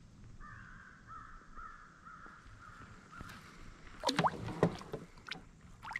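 A bird calls in a rapid run of harsh notes for about three seconds. A few loud, sudden knocks and splashes follow around the canoe.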